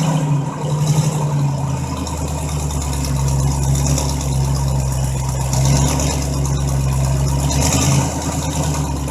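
1964 Chevrolet Impala's engine running steadily after sitting unused for a while, with a deeper low note joining about a second and a half in.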